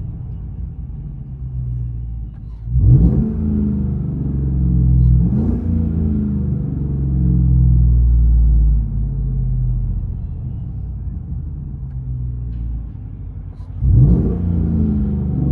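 2015 Chevy Silverado's 5.3L V8 with a straight-piped true dual exhaust, heard from inside the cab. It idles steadily and is revved up and back down about 3 seconds in, again around 5 seconds, and once more near the end.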